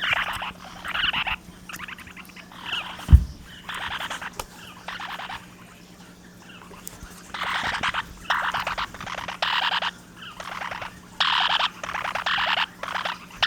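Small pet parrots (linnies and parrotlets) giving a series of harsh, raspy chattering calls, each about half a second long, with a lull midway. A single dull thump about three seconds in.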